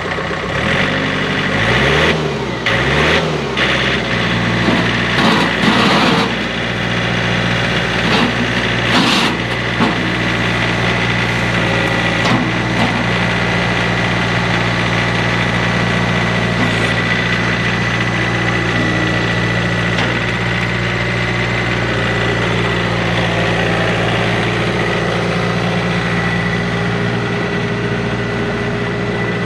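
John Deere 4044M tractor's four-cylinder Yanmar diesel engine, revved briefly twice early on and then idling steadily, with a steady high whine over the engine note.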